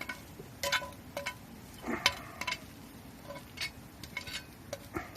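Scattered light clicks and clinks with a few sharper knocks, like small hard objects being handled; the loudest knock comes about two seconds in.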